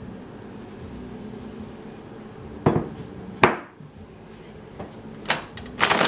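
A bowl being handled and set down on a hard surface: two sharp knocks under a second apart, the second ringing briefly, then a quick run of clatters near the end.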